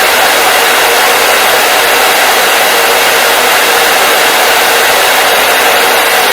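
Hair dryer running steadily: loud, even blowing air with a faint motor hum.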